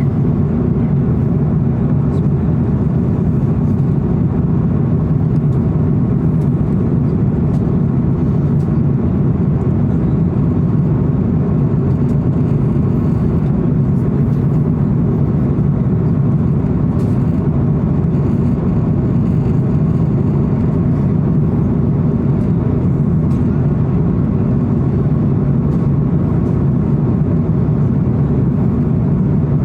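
Steady low rumble of an airliner cabin: engine and airflow noise, unchanging throughout, with a few faint ticks.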